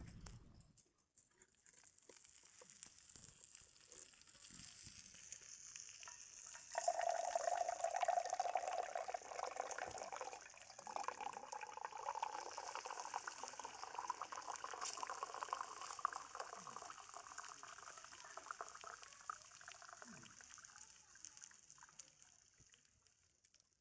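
Liquid hissing and bubbling, faint at first and growing louder about seven seconds in, then fading away near the end.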